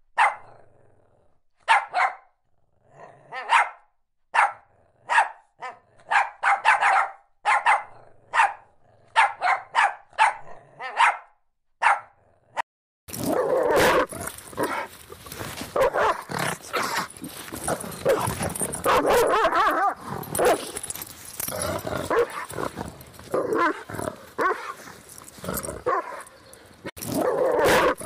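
Dog barking: short sharp barks, often in twos and threes with quiet gaps between, about twenty in the first dozen seconds. From about 13 seconds in, a noisier, continuous stretch of barking and growling follows, with the calls running into each other.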